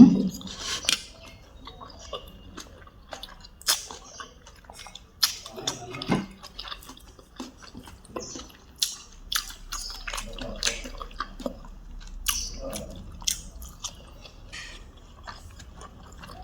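Close-miked eating sounds: chewing with wet smacks and mouth clicks, scattered irregularly, from someone eating a soupy stew.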